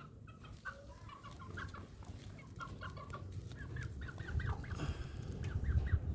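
Young village chickens, just under three months old, clucking softly in many short, quick calls.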